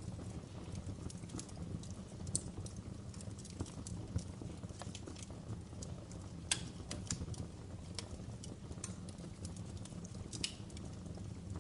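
Wood fire burning in a fireplace: a steady low rumble of the flames with irregular crackles and pops, a few sharper snaps standing out.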